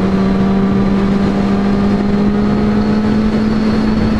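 Kawasaki Z800's inline-four engine running at a steady highway cruise in sixth gear, one even engine note with wind rushing over the microphone.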